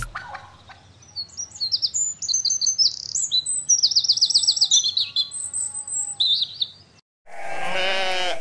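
Birds chirping and trilling in quick, high, repeated phrases. Near the end, after a brief gap, a single long wavering call starts suddenly and is louder than the birdsong.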